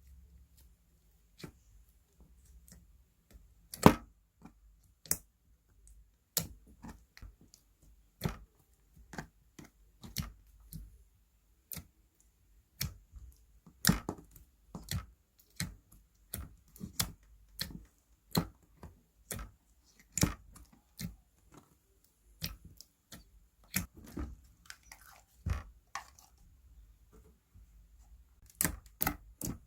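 Slime being pressed and stretched by hand, giving off sharp popping clicks as air pockets burst, irregularly about once or twice a second, with one loud pop about four seconds in.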